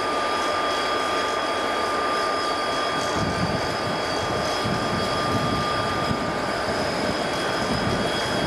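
Conrail freight train rolling past, a steady rumble that grows heavier about three seconds in, with a steady high-pitched whine throughout.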